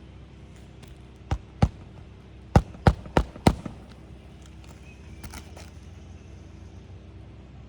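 Hammer driving roofing nails through an asphalt shingle into the roof deck: two strikes, then a quick run of four sharp blows about a third of a second apart.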